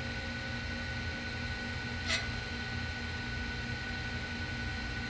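Steady low hum of shop machinery with a faint constant high tone, and one short click or scrape about two seconds in.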